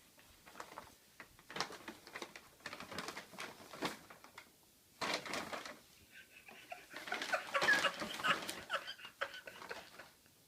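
A bag crinkling and rustling in irregular bursts as a cat gets into a bag of catnip, busiest in the last few seconds.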